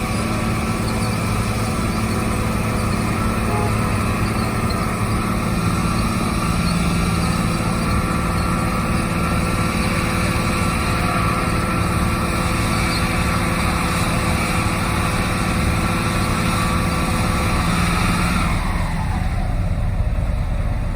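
Heavy construction machine's engine running steadily with a high whine over a low rumble; near the end the whine and upper part of the sound fall away as it eases off.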